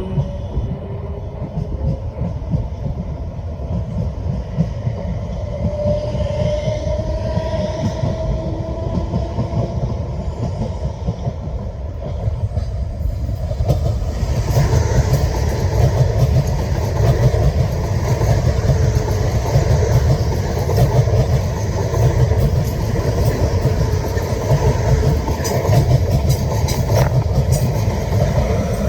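Passenger train running through the station: a rising whine over the first third, then louder rumbling with the clicks of wheels over rail joints from about halfway.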